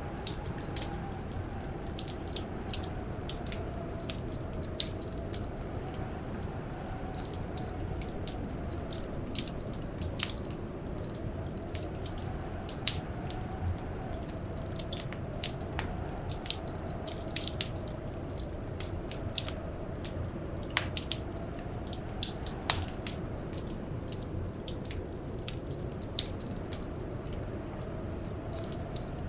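Wood fire crackling, with many sharp, irregular pops and snaps over a steady low rumble. Behind it, blizzard wind howls faintly, its pitch slowly rising and falling.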